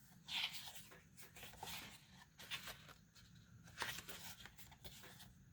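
Faint rustling and scraping of paper sheets being handled, in irregular bursts, the loudest about half a second in and again near four seconds in.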